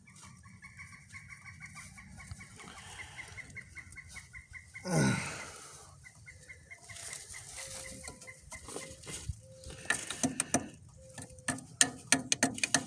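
Chickens clucking. Near the end comes a run of sharp clicks.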